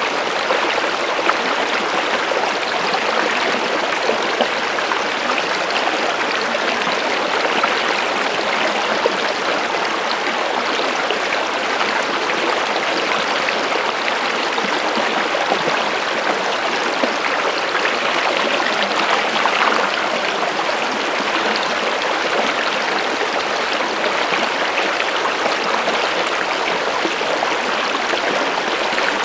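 A stream of running water with a steady, even rush and babble.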